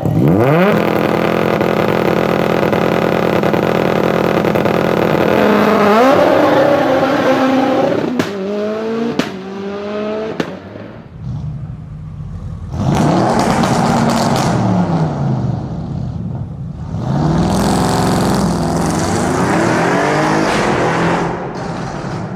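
High-performance car engine revved sharply and held at high revs for several seconds, then blipped, with a few sharp exhaust pops about eight to ten seconds in. Later the engine pitch rises and falls twice more.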